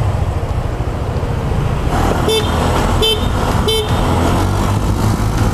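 Three short vehicle-horn toots about three-quarters of a second apart, over the steady wind and engine noise of a motor scooter on the move.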